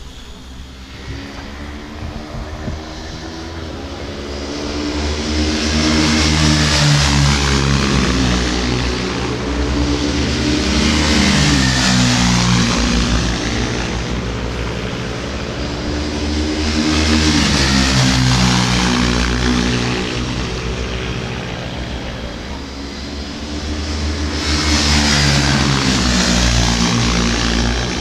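Racing motorcycles going past at speed on a track, in four loud waves. Engine pitch drops as each group passes by.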